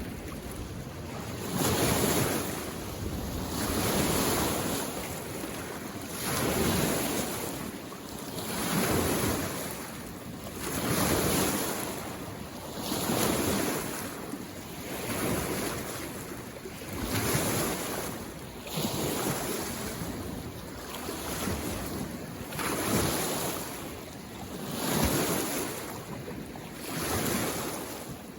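Small waves on a mountain lake washing in against the shore, one rushing surge about every two seconds.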